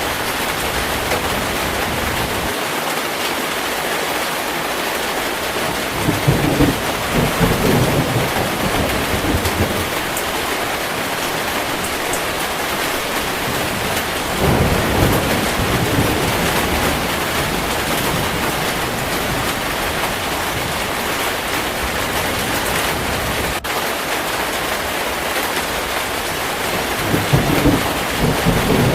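Heavy, steady rain with rolling thunder: low rumbles swell up about six seconds in, again around the middle, and once more near the end.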